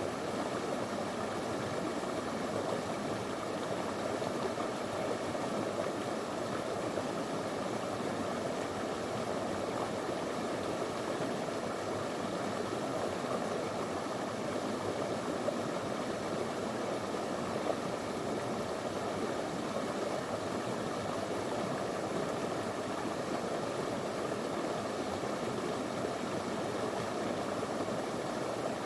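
Small shallow river flowing steadily over stones, a constant rushing babble of water.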